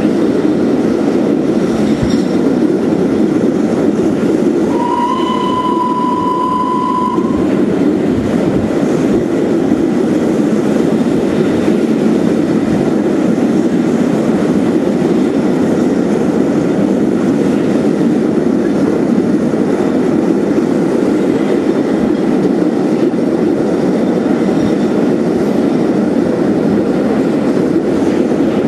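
Steady running noise of a steam-hauled passenger train crossing a steel railway bridge, heard from inside a carriage. About five seconds in, a steady high tone sounds for about two and a half seconds.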